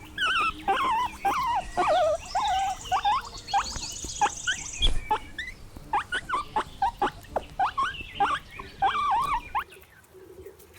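Guinea pig squeaking: a quick run of short, wavering, high-pitched squeaks that stops shortly before the end.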